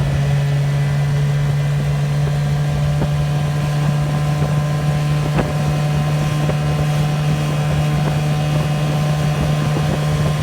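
1972 Chrysler 20 hp two-stroke outboard motor running at a steady speed, pushing the boat along, with its pitch holding constant. Wind buffets the microphone.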